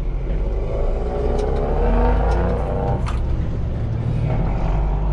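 Heavy lorry's diesel engine pulling away under load, its pitch rising for a couple of seconds and then falling back about three seconds in, over a deep steady rumble.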